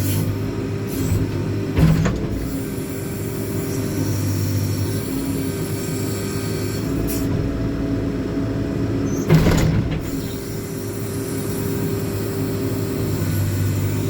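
JCB 4CX backhoe loader's diesel engine running steadily, its note rising and falling with hydraulic load as the rear boom works. Two sharp knocks stand out, one about two seconds in and a louder one about two-thirds of the way through.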